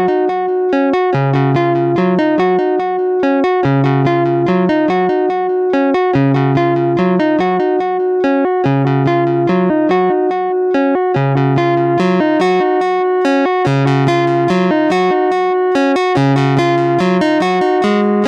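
Analog synth melody from an AJH Synth MiniMod voice, sequenced by a Vermona meloDICER: short plucky notes in a repeating stochastic pattern, with lower notes recurring every couple of seconds over a steady held tone. About two-thirds of the way through the notes turn brighter.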